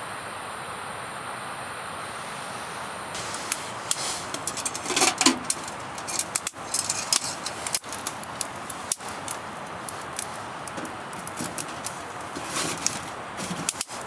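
A steady hiss, then from about three seconds in a run of irregular sharp crackles and snaps.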